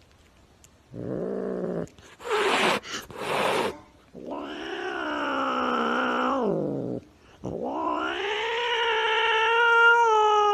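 A cat yowling: a short cry, a few short hissing noises, then two long drawn-out wails, the second rising, holding steady, then falling away.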